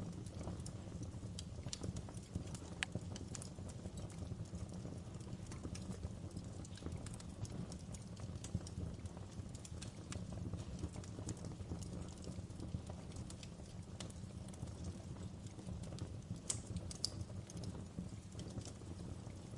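Wood fire in a fireplace crackling, with irregular sharp pops and snaps over a low, steady rumble of the burning logs.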